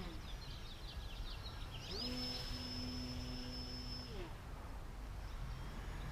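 Electric RC airplane's brushless motor (Scorpion 2215) spinning a 10x4.7 slow-flyer propeller with a steady whine. It is throttled down right at the start, comes back up about two seconds in and holds, then is throttled down again about two seconds later.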